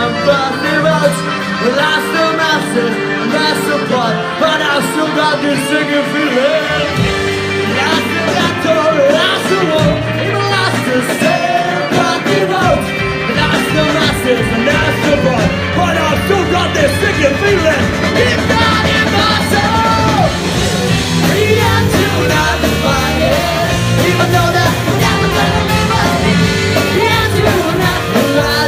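Live rock band playing a song with a singer, recorded from the audience; the low bass end fills in fully about halfway through.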